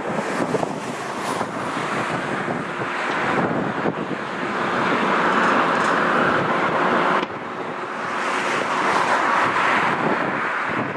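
Boeing 747-200F's four Rolls-Royce RB211 turbofans running at high power, a loud steady rush with wind buffeting the microphone. The sound drops sharply about seven seconds in, then builds again.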